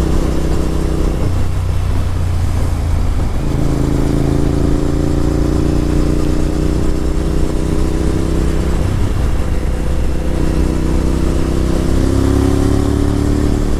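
Honda VTR1000F Superhawk's 996 cc V-twin engine running while the motorcycle is ridden. The engine note shifts about a second in and again at around three and a half seconds, then rises steadily near the end as the bike accelerates.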